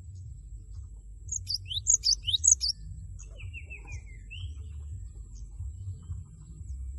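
Cinereous tit (gelatik batu) calling: a quick burst of loud, sharp high notes about a second in, then a short falling run of notes and a single rising note. A steady low hum lies underneath.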